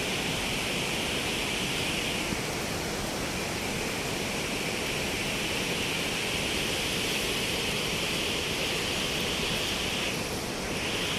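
Steady rush of water from a large waterfall, an even roar with no breaks.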